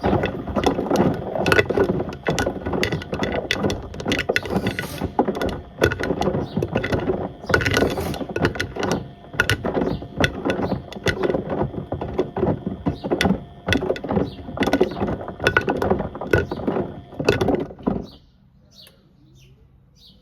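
A toaster and kettle tumbling inside the drum of a Beko WM74135 washing machine, with a dense, irregular clatter and banging of hard objects. It stops abruptly about 18 seconds in, leaving a faint low hum.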